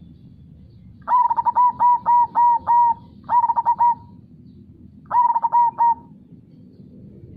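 Zebra dove (perkutut) cooing in three phrases: a run of about six quick notes, then two shorter phrases of about three notes each. Underneath runs the steady low rush of river water.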